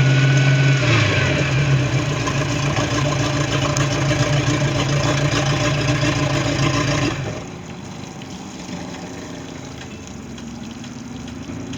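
Baja 188 Islander's sterndrive engine running, its pitch shifting about a second in, then cutting off suddenly about seven seconds in, leaving a quieter steady noise. This is a test run after a gimbal bearing replacement.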